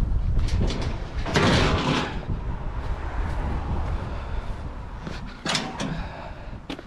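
Knocks, scrapes and clatter of scrap items being picked up and handled, with one longer clatter about one and a half seconds in and another sharp one near the end, over a steady low rumble.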